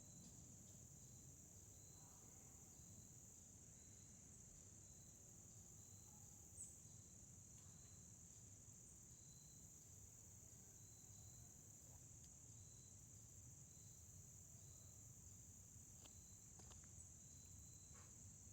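Faint, steady chorus of crickets, with a second, lower chirp repeating at an even beat about once a second.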